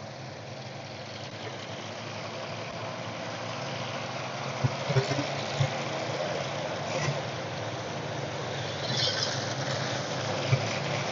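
Race car engines running at low speed, a steady rumble that slowly grows louder, with a few short knocks about five seconds in.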